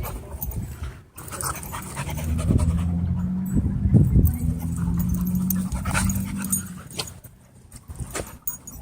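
Dogs panting, with a low steady hum from about two seconds in until nearly seven seconds and a few short sharp sounds in its middle.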